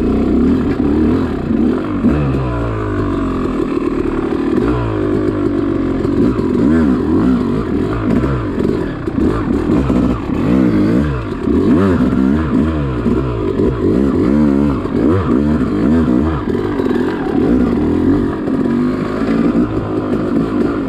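Yamaha YZ two-stroke dirt bike engine revving up and down again and again, its pitch rising and falling every second or so as the bike is ridden over singletrack.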